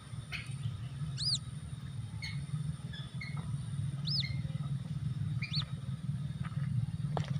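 Short, high arching peeps repeated every second or two, with fainter chirps between, typical of white-breasted waterhen chicks calling as a lure, over a steady low rumble.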